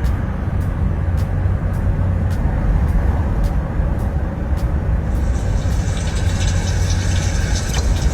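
Steady low rumble of a car's engine and road noise, heard from inside the cabin. Faint ticking about twice a second runs through the first half.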